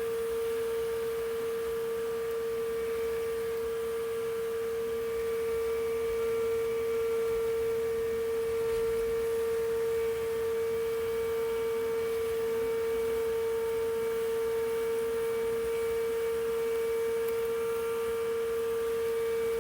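Bee vacuum, a modified shop vac, running steadily, with a constant motor whine as it sucks swarming honeybees off the ground.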